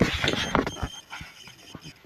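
Kittens scrabbling and playing among toys and crawl-through things: a jumble of quick knocks and rustling, loudest in the first half-second, with a few short high squeaks.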